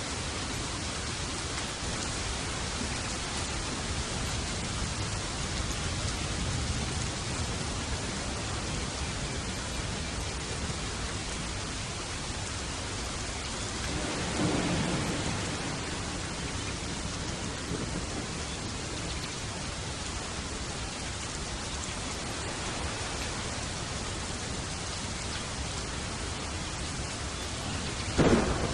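Steady heavy rain with thunder: a rumble swells about halfway through, and a sudden, loud thunderclap comes near the end.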